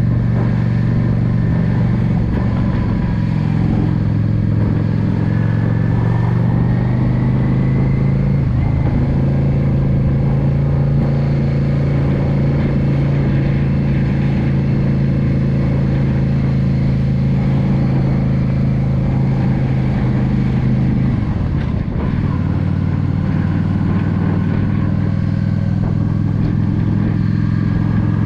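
Yamaha V Star 650 cruiser's V-twin engine running steadily while riding, heard from on the bike. The engine note changes about 8 seconds in, and again after a brief dip about 21 seconds in.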